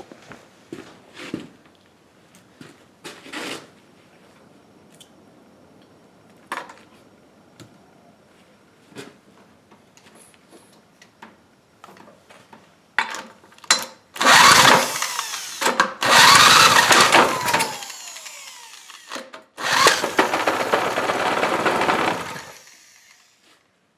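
Scattered clicks and knocks, then a small power tool runs loudly in two bursts of a few seconds each, its speed rising and falling.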